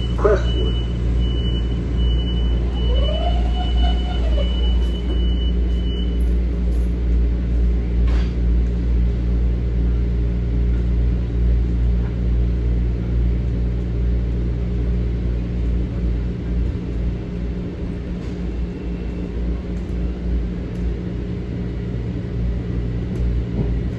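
Steady low rumble and hum inside a Metro-North M7A electric multiple-unit train. A thin high tone sounds for the first several seconds, and a whine begins to rise near the end.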